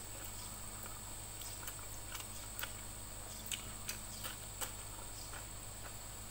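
Mouth sounds of eating by hand: chewing, wet lip smacks and finger licking as rice, sardine and raw cucumber are eaten, heard as scattered short clicks that cluster about halfway through, over a steady low hum.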